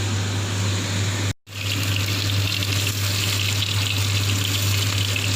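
Chicken sizzling as it grills: a steady hiss over a low hum, cutting out briefly once a little under a second and a half in.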